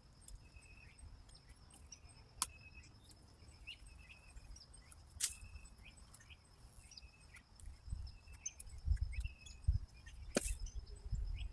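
Yard ambience: a bird repeating short chirps about once a second over a steady, high insect trill, with a few sharp clicks. From about eight seconds in, low thumps and rumbles sound close to the microphone.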